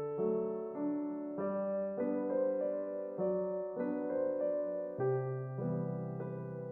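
Background piano music: a gentle melody of single notes over a bass note that changes every few seconds.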